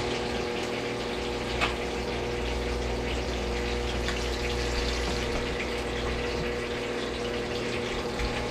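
Fish frying in hot oil in a pan: a steady sizzle over a steady low hum, with one short click about a second and a half in.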